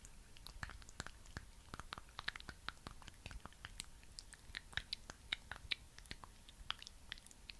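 A thick, sticky skincare product being worked close to the microphone: a dense, irregular run of small wet clicks and smacks, several a second.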